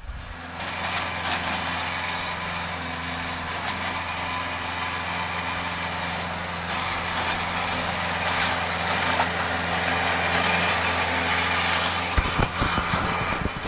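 Mahindra tractor's diesel engine running steadily at a constant pitch, growing a little louder toward the end. A few low thumps come near the end.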